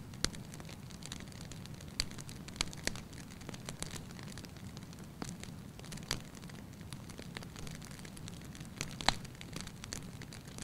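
Wood fire crackling in a fireplace: irregular sharp pops and snaps over a steady low rumble of the flames, the loudest pop about nine seconds in.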